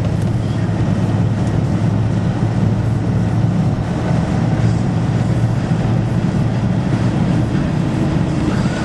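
Steady engine and road noise heard from inside a truck's cab while driving, a low even drone.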